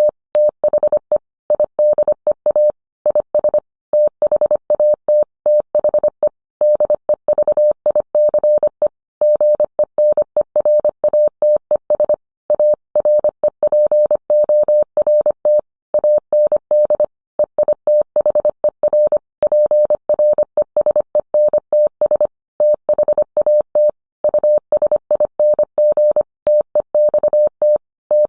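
Morse code sent as a single steady beep, keyed on and off quickly in dots and dashes with short gaps between characters and words.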